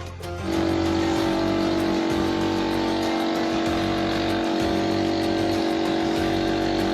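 Motorcycle engine held at steady, raised revs, with an unchanging pitch, as the bike is run after repair.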